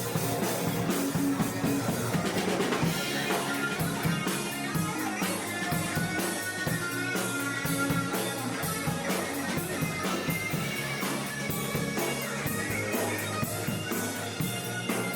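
Rock band playing live: drum kit keeping a steady beat under guitar.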